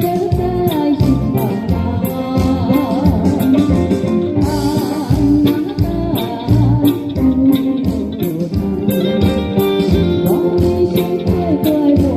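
Band music: guitars and bass over a steady drum beat with cymbals, carrying a wavering melody line.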